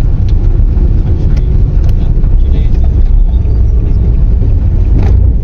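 Loud, steady low rumble of a vehicle in motion.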